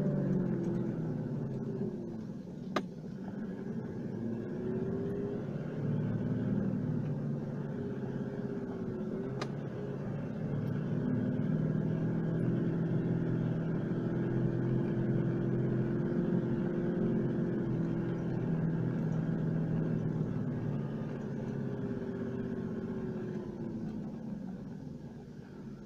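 A four-wheel drive's engine running as it drives along a dirt track, its note rising and falling several times. Two sharp clicks about three and nine and a half seconds in, and the sound gets quieter near the end.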